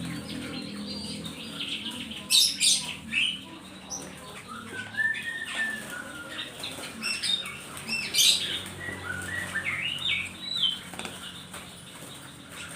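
Small songbirds calling: scattered sharp chirps, one whistled note that rises and falls about five seconds in, and a run of short rising notes near the end.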